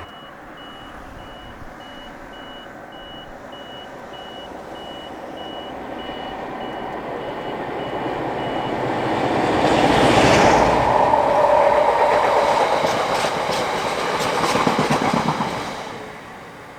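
A class 47 diesel locomotive with a train of barrier wagons approaching and passing: the engine and rail noise build to a peak about ten seconds in, then the wagons rumble and clatter over the rails before fading away near the end. A high beep repeats about twice a second during the first half.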